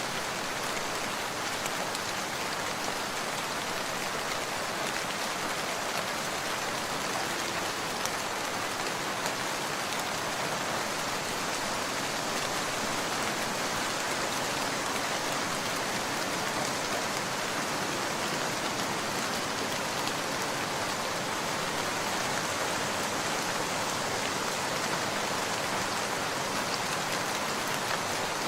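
Steady rain, an even hiss that holds at one level throughout, with a few faint ticks scattered through it.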